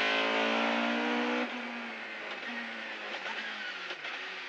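Darrian T90 GTR rally car's engine heard from inside the cabin, running hard at high revs. It drops away suddenly about a second and a half in as the throttle is lifted, then runs quieter at lower revs, its pitch falling near the end as the car slows.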